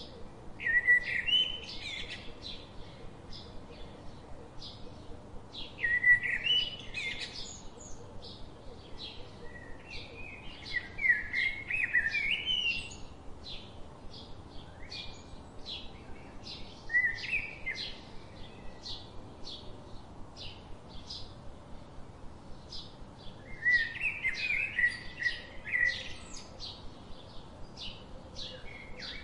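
Birds singing in phrases of warbling chirps every few seconds, over a steady run of short strokes of a pen writing on paper, about two a second.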